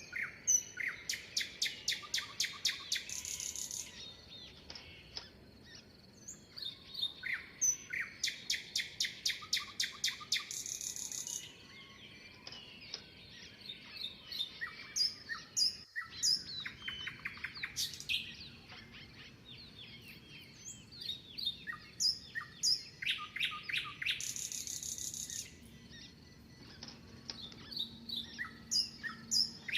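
Songbirds chirping and singing, with several bouts of rapid, evenly repeated high notes lasting a few seconds each, between shorter scattered calls.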